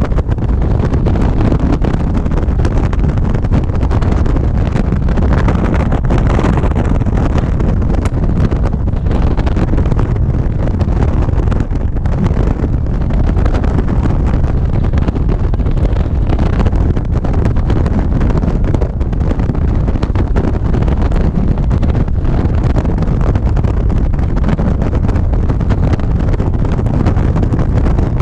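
Wind buffeting the microphone on a motorcycle riding at a steady speed: a loud, even rush of air, heaviest in the low end, covering the motorcycle's own running and road noise.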